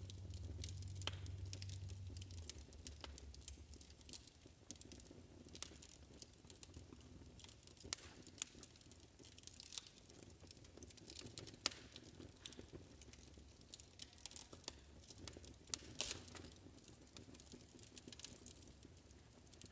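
Wood fire crackling, with irregular sharp pops and snaps over a faint hiss. A low hum fades out in the first two or three seconds.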